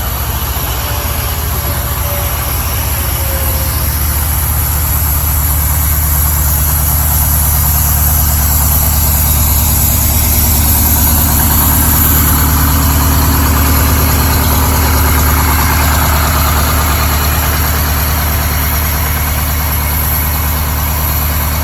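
Heavy diesel truck engine running steadily at an even, low pitch.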